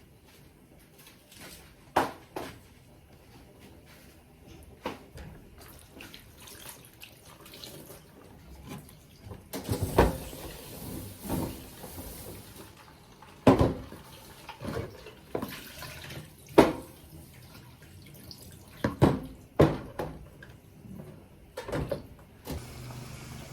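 Washing up at a sink: a string of sharp knocks and clatters, with a tap running for about three seconds midway.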